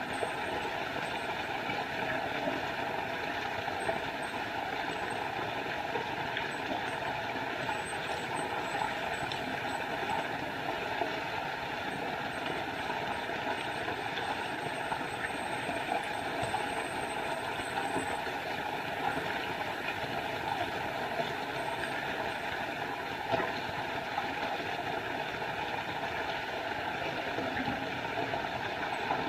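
Small forest waterfall: water falling and rushing in a steady, unbroken roar of noise.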